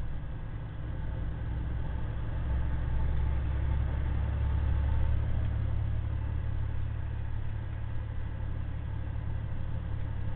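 Semi truck's diesel engine running steadily under a heavy load, heard from inside the cab as a low drone that swells a little a few seconds in.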